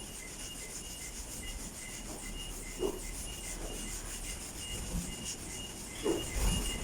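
Sanding on a car body panel: a steady scratchy rubbing, with two brief squeaks about three and six seconds in.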